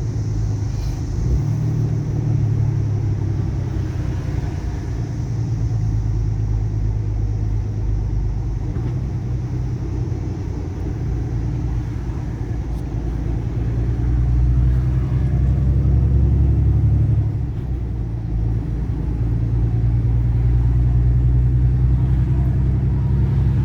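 Low, steady drone of a truck's engine and road rumble heard from inside the cab. The hum shifts in pitch a few times as engine speed changes.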